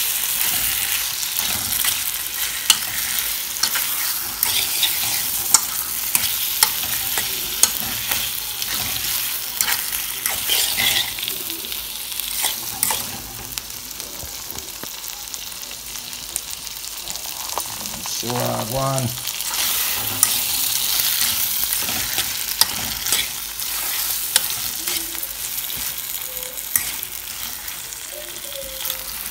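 Ackee and saltfish sizzling as they fry in a metal frying pan, with a utensil stirring and scraping against the pan in frequent short clicks. The sizzle eases off somewhat through the middle and picks up again after about twenty seconds.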